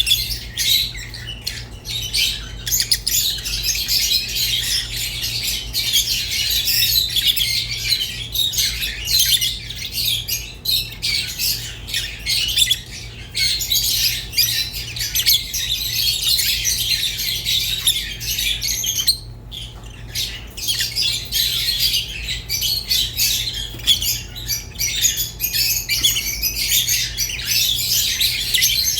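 Rosy-faced and Fischer's lovebirds chattering without pause in fast, high-pitched squawks and chirps, with a brief break about two-thirds of the way through.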